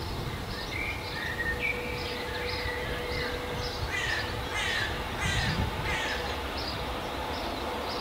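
Birds calling over the low rumble of approaching trains. A gliding call comes in the first few seconds, then four harsh, falling calls about two-thirds of a second apart. Short high chirps from a small bird repeat throughout.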